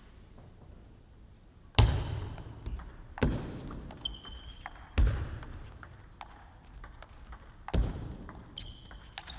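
A table tennis rally: a celluloid ball clicking off rackets and the table in quick irregular taps, with four heavy low thuds and two short high squeaks.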